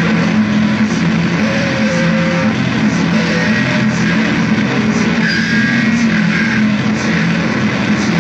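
Loud, dense guitar music, continuous, with steady low held notes under a thick distorted wash.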